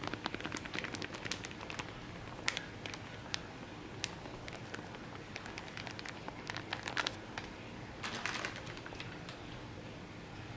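Hot cooking oil crackling and popping in irregular, scattered clicks as food fries.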